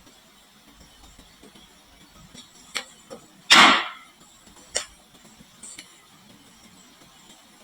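Glass marbles on a wooden HABA marble-run slope: a few scattered sharp clicks, and one louder clatter lasting under half a second about three and a half seconds in.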